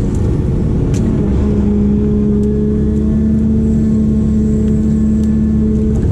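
Diesel engine of a heavy earthmoving machine running steadily, with a held low hum and a sharp click about a second in.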